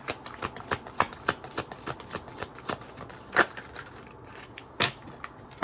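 Tarot cards being shuffled and handled: a run of quick papery snaps and taps, with a louder snap a little past halfway and another near the end.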